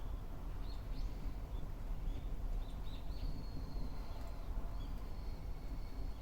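Outdoor wood bonfire burning: a steady low rumble with a few scattered short, high chirps and snaps, and a thin high steady tone coming in about halfway.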